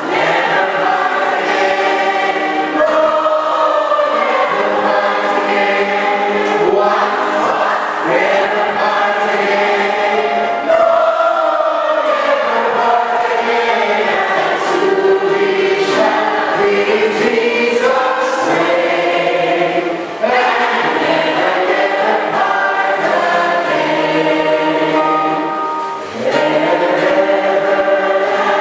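A choir singing in long phrases, with short pauses between them about a third of the way in, two thirds of the way in and near the end.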